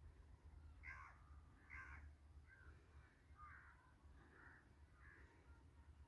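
Faint bird calls: two louder calls about a second in and just before two seconds, then a string of softer calls about once a second, over a low steady rumble.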